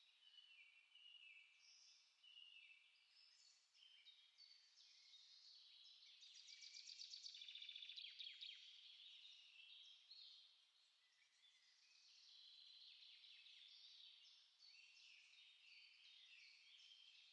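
Several small songbirds singing and chirping together, overlapping short phrases and glides, with a fast, dense trill about six seconds in that is the loudest part and lasts about two seconds.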